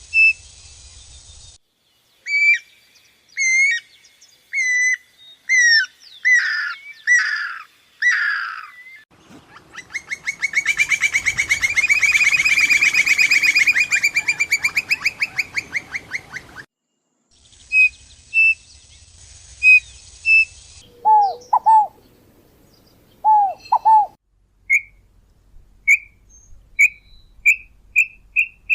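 Songs and calls of several different birds in separate stretches with abrupt changes between them. First come repeated sliding whistled notes, then a long, loud, fast trill in the middle. Later there are a few lower paired notes, and near the end a run of short notes that gets faster.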